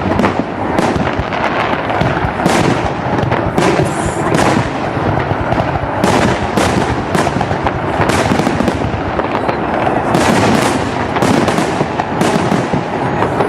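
Fireworks salute: aerial shells bursting in a rapid barrage, sharp bangs about once or twice a second over a constant rumble.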